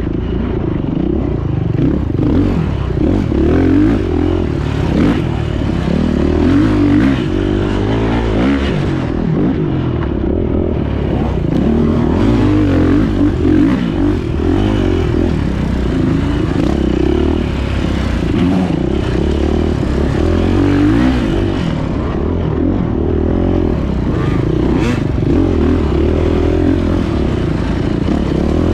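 Beta 430 dirt bike's four-stroke single-cylinder engine running hard as it is ridden through a race lap, its pitch rising and falling with the throttle and easing off briefly a couple of times.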